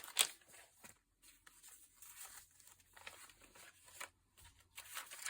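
Paper being handled, with short rustles and crinkles; the loudest comes about a quarter second in, and there is another cluster near the end.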